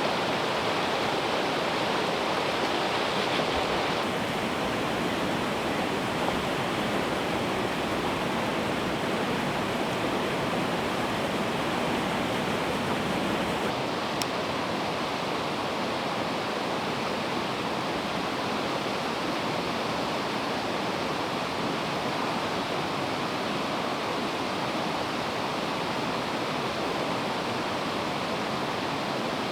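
River water rushing steadily, a constant hiss.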